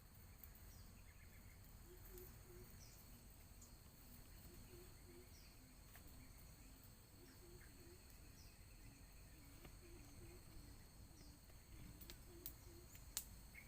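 Faint forest insect chorus: steady high-pitched insect drone with short falling chirps about once a second, and a low call repeating in groups of two or three. A few sharp clicks near the end.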